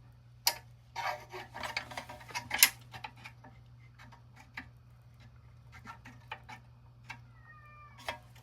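Small toy-truck parts being handled: a wheel with a rubber tire pushed onto a pressed-steel axle, giving a cluster of sharp clicks and scraping in the first three seconds, then scattered light ticks. A short squeak or cry sounds near the end.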